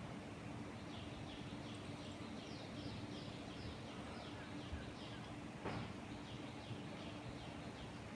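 A bird calling a long run of short, quick downward-sliding chirps, about three a second, over a steady hiss of wind in the trees. A single soft click comes about two thirds of the way through.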